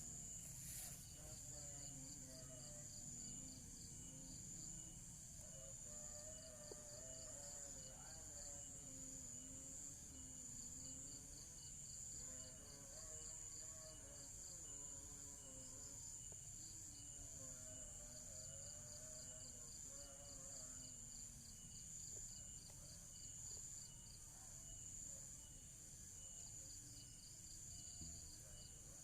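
Crickets chirping faintly and steadily in the background, with a constant high ringing, over faint distant music or voices.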